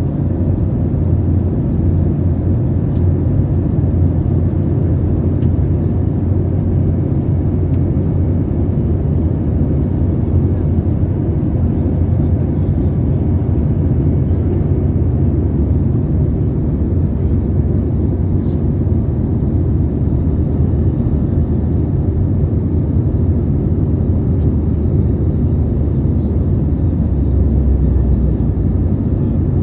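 Steady low drone of an airliner in flight heard inside the passenger cabin: engine and airflow noise, even and unchanging.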